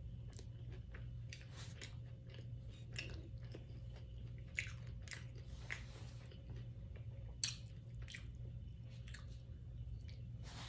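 Close-up mouth sounds of someone chewing soft, saucy steak and rice: irregular wet smacks and clicks, two of them louder, over a steady low hum.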